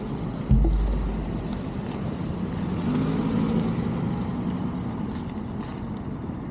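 Motor vehicle engine and road noise, steady, with a sudden low thump about half a second in. An engine note swells in the middle and then eases off.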